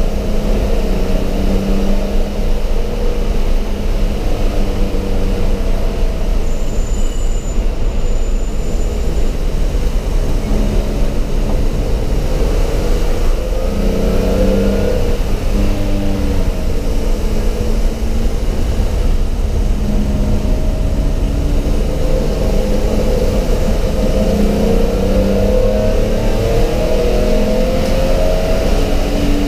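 Race car's engine running hard, heard from inside the stripped cabin over steady road and wind noise; the engine note rises and falls with throttle and gear changes, climbing under acceleration a little before halfway and again near the end.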